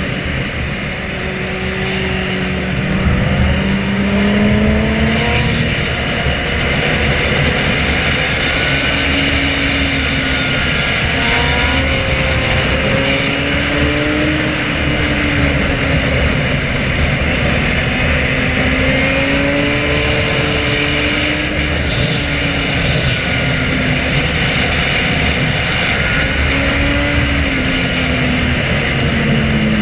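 Inline-four sport motorcycle engine revving up and down through the gears, its pitch climbing and dropping again and again, over a steady rush of wind noise.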